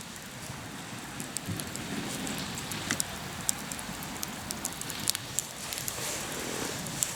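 Hardwood campfire crackling, with irregular sharp pops and snaps scattered over a steady hiss.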